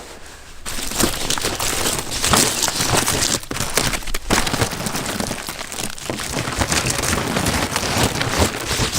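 Dense crackling and rustling that starts suddenly under a second in and continues, made of many quick small crunches.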